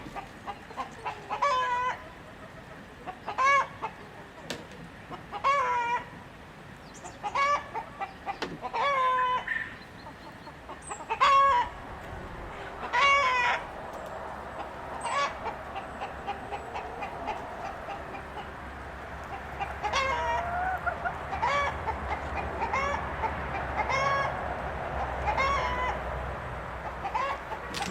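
Chickens clucking, short pitched calls repeating every second or two, with a steady low background hum and murmur of the flock building up in the second half.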